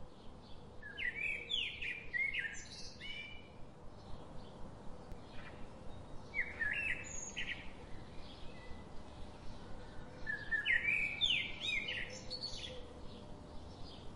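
A bird singing in three short phrases of quick chirping notes, a few seconds apart.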